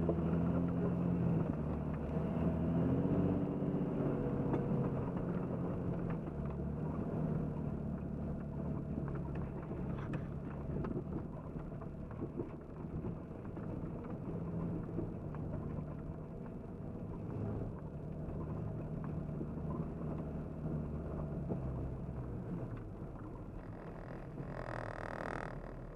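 Jeep Cherokee XJ engine running under load on a flooded trail, its pitch rising and falling with the throttle over a steady rushing noise. Near the end a brief higher-pitched sound lasts about a second and a half.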